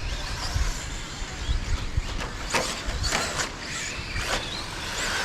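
Radio-controlled 2wd stadium trucks racing on a dirt track: high motor whines rising and falling as they pass, with several sharp clacks.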